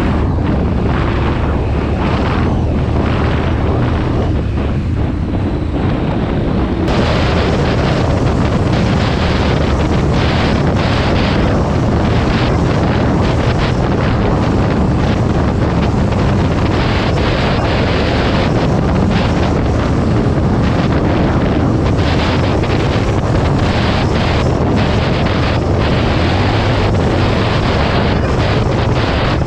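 Motorcycle engine running under way with heavy wind buffeting on the action camera's microphone. The sound changes abruptly about seven seconds in.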